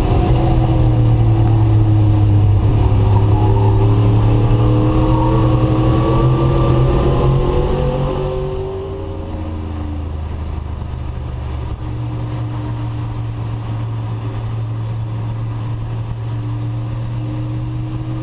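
Race truck engine heard from onboard, running hard at high revs with its pitch rising and falling gently, then easing off about eight seconds in to a quieter, steadier run.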